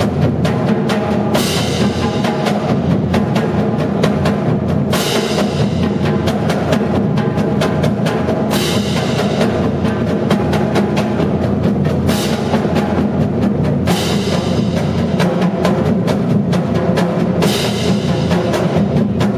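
Marching drumline playing: a dense run of rapid drum strokes with crashes ringing out about every three to four seconds.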